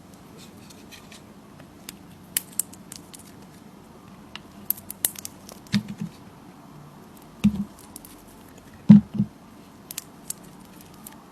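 A knife cutting through a bar of soap: scattered crisp crackles and clicks as the blade slices, with a few louder soft thuds about halfway through and near the end.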